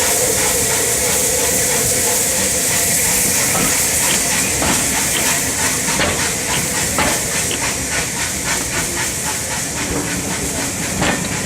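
Steam locomotive letting off a loud, steady hiss of steam, with metallic clicks and clanks from the train growing more frequent partway through.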